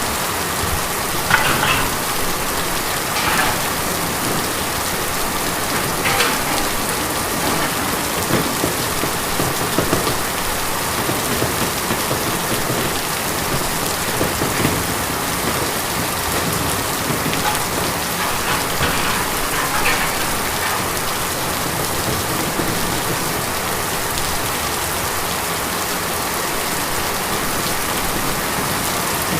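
Steady heavy rain drumming on a tin roof, a dense even hiss with a few louder spatters now and then.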